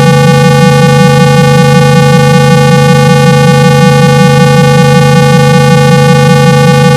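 Loud, steady low test tone of about 165 Hz, buzzy with overtones and a fast, even flutter. It is played to shake water out of a phone's loudspeaker.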